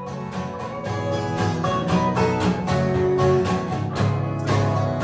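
Acoustic guitar strummed in a steady rhythm between sung lines, live music with no voice.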